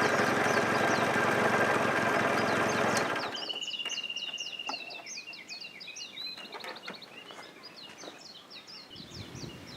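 Small songbirds chirping repeatedly, with one short level trill, in the open air. For the first three seconds they are half covered by a loud steady noise with a low throb, which cuts off abruptly.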